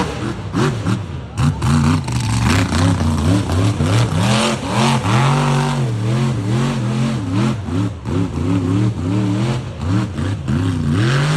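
Mega truck engine revved hard again and again, its pitch rising and falling many times in quick succession, over a rushing noise.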